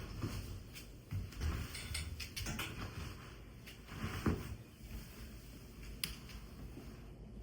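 Household things being handled indoors: irregular light clicks and knocks, with a firmer knock about four seconds in and a sharp click about six seconds in.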